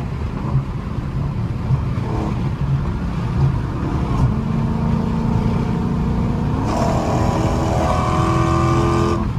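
Straight-piped Dodge Charger Scat Pack's 392 (6.4 L) HEMI V8 exhaust under load, heard from inside the cabin: a steady low rumble that rises in pitch and gets louder about two-thirds of the way through as the car accelerates.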